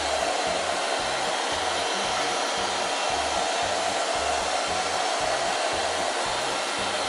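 Monarc Botbot robotic vacuum cleaner running, with the steady whir of its suction fan and brushes as it sweeps up scattered quinoa.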